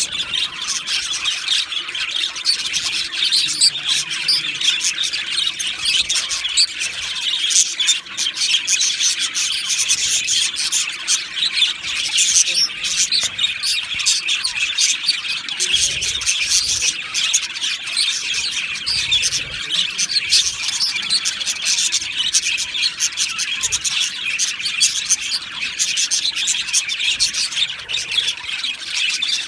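Male budgerigars chirping and chattering without a break, a dense stream of quick high chirps.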